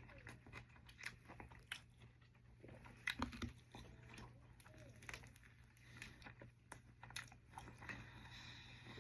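Faint biting and chewing of a double-toasted Subway sub, with short crunches from the toasted bread; the loudest bite comes about three seconds in.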